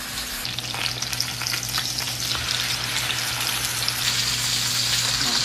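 Seasoned chicken thighs searing in a pan of hot olive oil and butter on high heat: a steady sizzle with crackling spatter.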